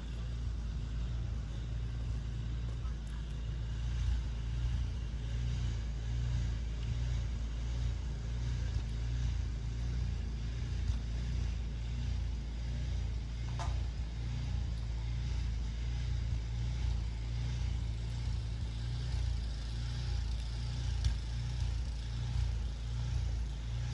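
Steady low rumble of a road vehicle running, with one short squeak about 14 seconds in.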